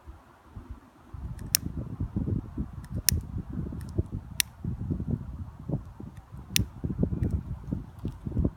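Wind buffeting the microphone in uneven gusts, with four sharp clicks spread through it.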